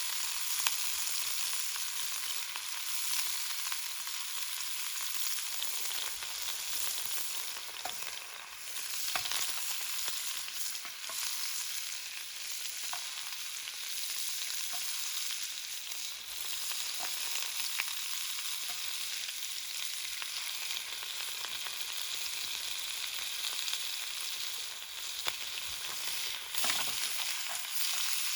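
Food sizzling in a pan over a campfire: a steady frying hiss with scattered faint crackles.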